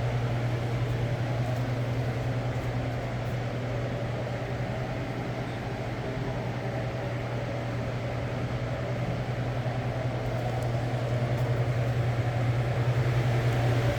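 Walk-in cooler's refrigeration unit running: a steady low hum from the compressor and fan with some airy fan noise.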